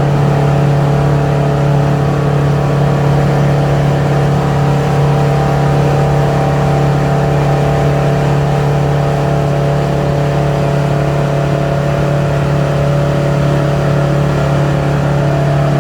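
A 25-foot cabin cruiser's engine running steadily under way, a constant, even drone with no change in pitch.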